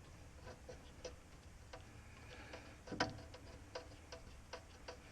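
Light metallic clicks of a speed wrench and socket turning bolts in by hand, irregular at roughly two a second, with one louder clack about three seconds in.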